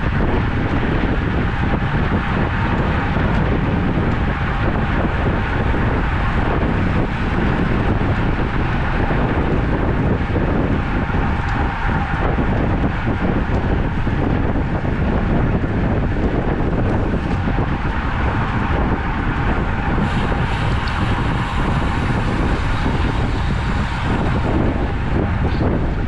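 Steady wind rush on the microphone while riding a road bike, with road and tyre noise.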